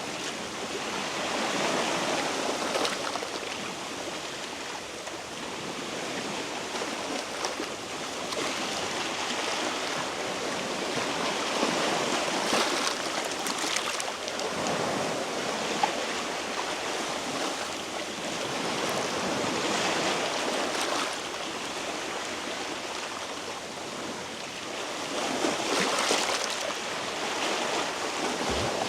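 Sea waves washing against shore rocks, the surf swelling and easing every several seconds.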